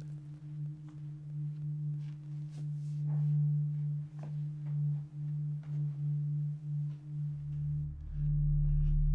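Low, sustained underscore drone that swells and fades slightly, with a deeper rumble coming in about seven seconds in. A few faint soft taps sound over it.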